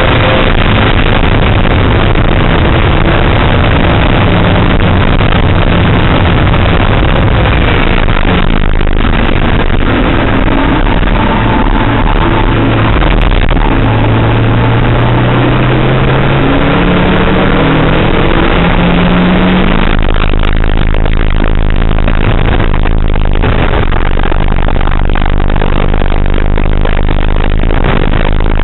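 Car engine heard from inside the cabin on a track lap, loud throughout. Its pitch climbs and drops as the driver works up and down through the gears, over road and wind noise.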